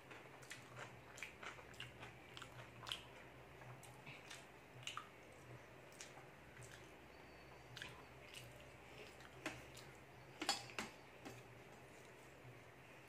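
Faint close-up chewing of a mouthful of rice and vegetables: scattered soft wet clicks and smacks of the mouth, with a louder cluster of clicks about ten seconds in.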